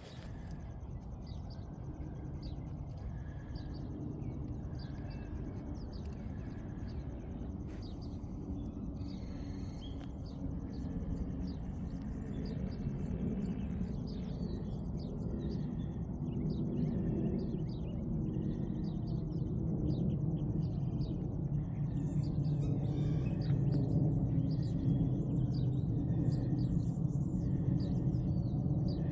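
Small birds chirping and calling in short, scattered notes, over a steady low rumble of background noise that grows louder during the second half.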